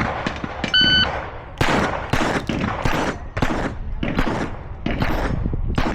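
A shot timer beeps once, about a second in. Then comes a string of rimfire pistol shots, fired about half a second apart.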